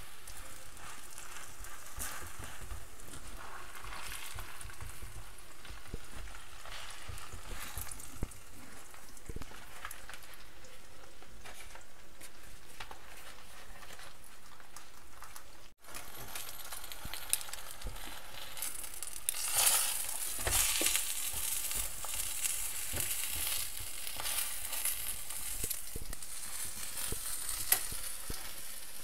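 Stuffed flatbread frying in a little oil in a frying pan: a steady sizzle, broken by a brief dropout a little past halfway, after which the sizzling is louder.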